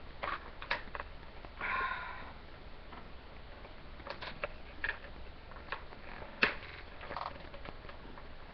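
Stiff plastic headphone packaging being worked open by hand: scattered clicks and crackles, with a short rustling rush about two seconds in.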